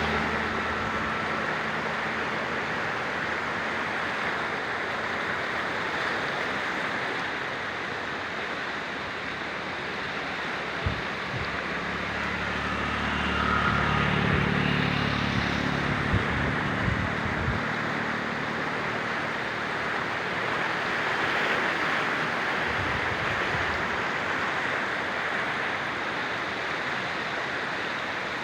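Steady rush of flowing floodwater. Midway a low engine-like hum rises and fades, with a few sharp knocks.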